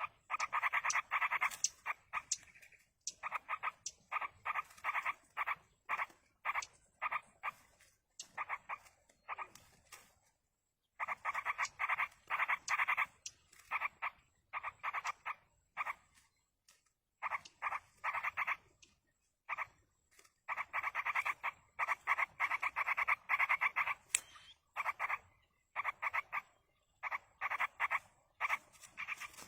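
Yellow-vented bulbul nestlings begging: rapid raspy chattering calls in repeated runs of a second or so with short pauses between them, the sound of chicks being fed by a parent.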